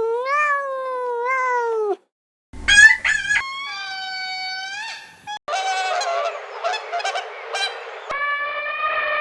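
A string of different animal calls, one after another with brief silent gaps between them: first a drawn-out whining howl that bends up and down, then short high squealing calls, then a noisier stretch of overlapping cries, and a long held call near the end.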